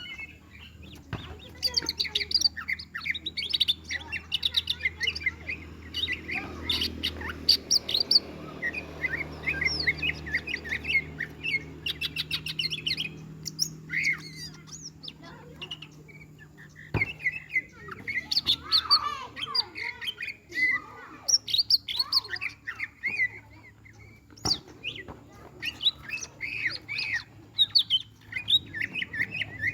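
A green songbird ('burung ijo') singing and chattering in rapid bursts of varied whistles and chirps, worked up at meeting a rival bird. A few sharp knocks sound over it.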